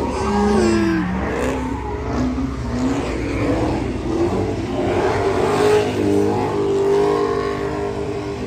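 Dodge Hemi V8 muscle-car engines revving over a steady low rumble of idling engines; the pitch rises and falls in the first few seconds and holds steadier toward the end.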